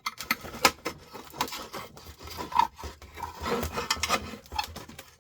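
Flat-head screwdriver blade scraping and clicking as it is worked around under a fitted part of a sandwich maker to prise it free. Irregular scrapes with sharp ticks, and a brief ring near the middle.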